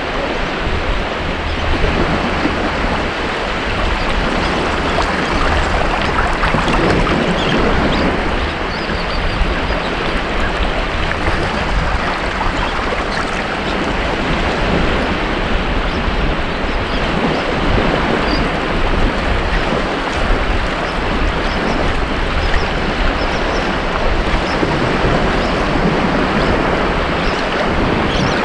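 Ocean waves breaking and washing on a beach, a steady rushing surf that swells and eases gently.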